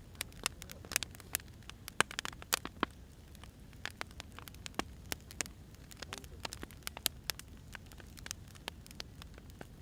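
Wood fire crackling: irregular sharp snaps and pops, several a second, over a low steady hiss.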